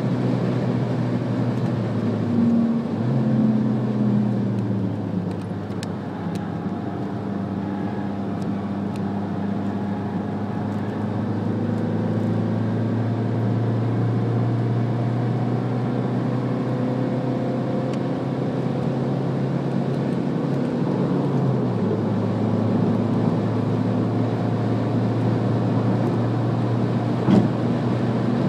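Alfa Romeo MiTo's engine running under way at track speed, heard inside the cabin along with tyre and road noise. Its pitch steps up about three seconds in and drops about twenty-two seconds in, with a short knock near the end.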